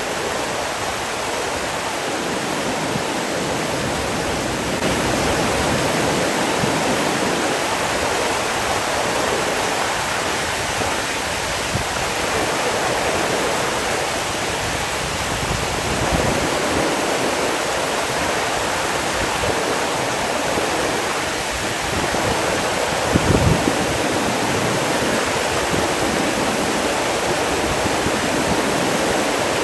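Steady rushing water, an even dense wash of sound, with a brief low bump about three-quarters of the way in.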